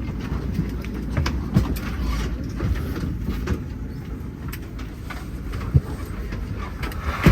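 Steady low rumble inside a Boeing 787-9 airliner cabin at arrival, with scattered clicks and knocks and a sharper knock about one and a half seconds in and again near the end.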